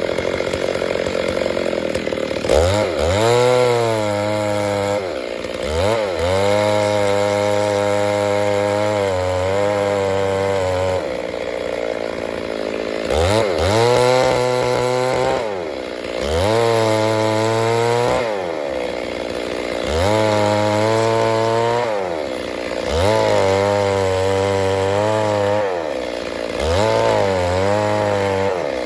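Stihl MS 382 two-stroke chainsaw running near idle at first, then revved up to full throttle again and again. Each time it holds a steady high pitch for a few seconds, then drops back, about six times, as in a run of cuts through wood.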